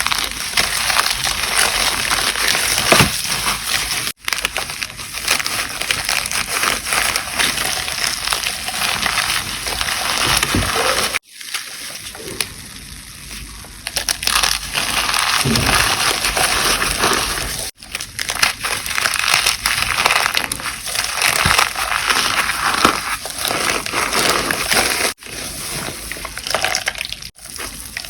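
Reformed gym chalk being crushed and crumbled by hand, a dense crunching and crackling. Several short clips follow one another with abrupt cuts, one of them softer.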